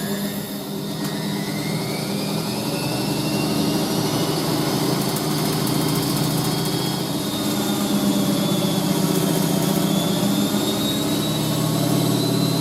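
Washing machine drum spinning at high speed: a steady motor whine with a hum from the drum.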